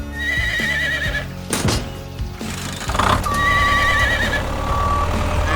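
Background music with a wavering, high animal call heard twice, each lasting about a second.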